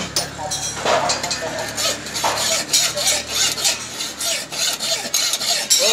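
Hand file rasping in quick, repeated strokes across the steel of a hand-forged shovel blade, a finishing step on the tool.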